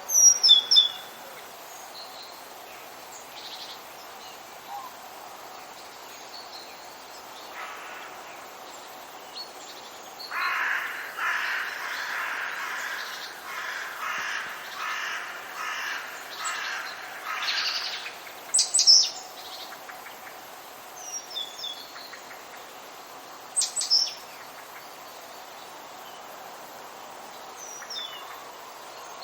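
Forest birds calling: sharp high chirps near the start and again later, and in the middle a run of about ten harsh repeated calls lasting some seven seconds, over a steady background hiss.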